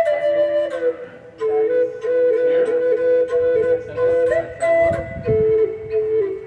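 Drone flute built into a walking stick, in E minor, played: a melody moving over a held lower drone note, in breathy phrases with a short break about a second in.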